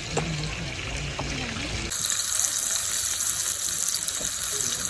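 Water running with a steady rushing hiss that comes in suddenly about two seconds in.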